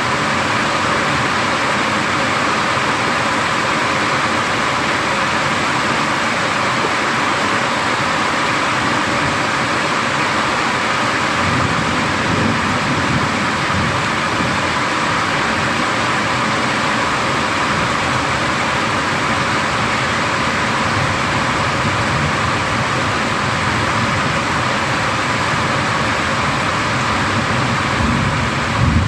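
Heavy thunderstorm rain falling steadily, an even rushing hiss with low rumbles swelling underneath around the middle and near the end.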